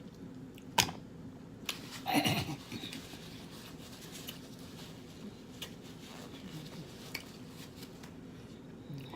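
Close-up eating sounds from a seafood boil: scattered clicks and taps of a fork and food being handled, with a sharp click a little under a second in and a louder wet, smacking sound about two seconds in, over a faint low hum.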